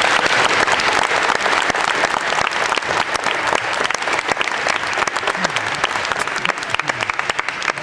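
Audience applauding, a dense crowd of hand claps that thins to scattered claps near the end.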